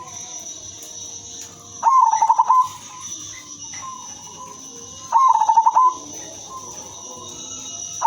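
Female zebra dove (perkutut) giving two rapid, stuttering cooing phrases about three seconds apart, each under a second long. A faint steady high whine runs underneath.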